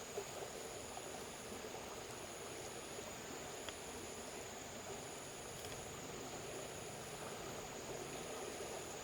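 Faint, steady background noise with a thin, high, constant whine and a higher tone that pulses on and off, plus a few light clicks.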